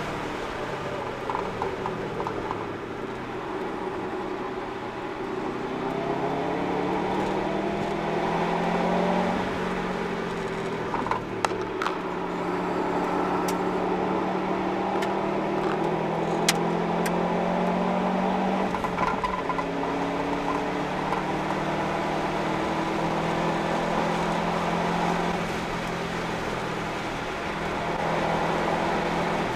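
Subaru Impreza WRX's turbocharged flat-four boxer engine, breathing through an Invidia cat-back exhaust, heard from inside the cabin under hard acceleration on track. The engine note climbs and drops several times as the revs rise and fall, over steady road and tyre noise, with a few sharp clicks near the middle.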